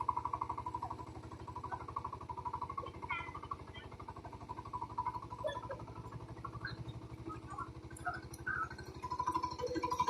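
Engine of a ploughing machine running steadily with an even, rapid putter, with a few short chirps over it.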